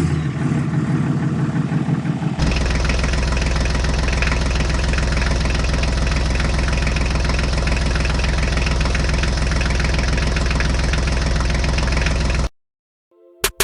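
Small engine running steadily with a low, even pulse. The sound changes abruptly about two seconds in and cuts off suddenly near the end.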